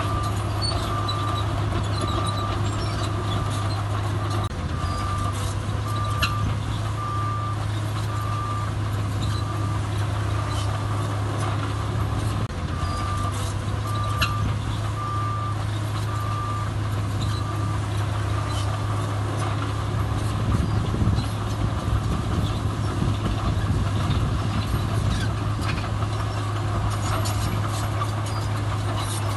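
Diesel engines of heavy earthmoving machinery running, with a reversing alarm beeping steadily about once a second. The beeping pauses for a few seconds in the middle and stops well before the end, while the engine noise grows somewhat louder near the end.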